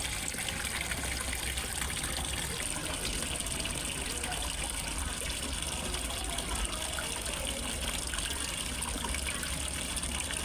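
Water from a small waterfall splashing and trickling steadily into a fish pond.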